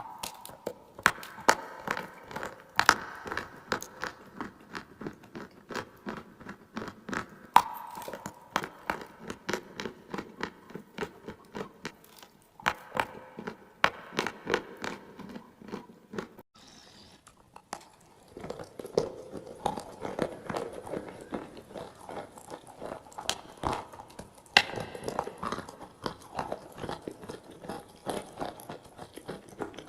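A person biting and chewing clay close to the microphone: a steady run of sharp crunches, with a short pause a little past halfway before the chewing resumes.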